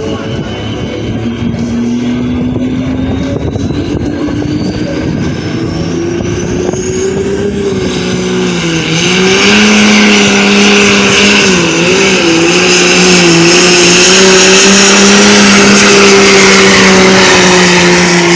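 Farm tractor engine at full throttle pulling the sled in a tractor pull. The revs climb steadily over the first several seconds, with a high whine rising alongside. The engine then goes much louder, briefly bogs twice midway, holds high, and begins to wind down at the very end.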